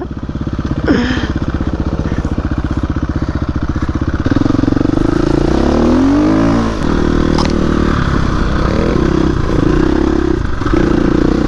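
A 350cc four-stroke dirt bike engine running under the rider. About four seconds in it gets louder, then around the middle the engine note dips and climbs back up with the throttle before it holds steady again.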